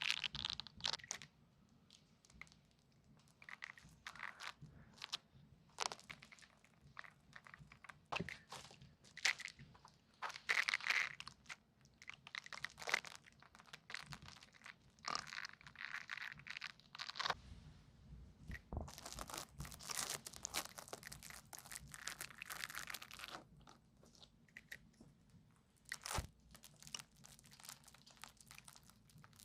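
Close-up ear-cleaning ASMR sounds: irregular scratching and crackling strokes, with a longer stretch of dense rustling about two-thirds of the way through.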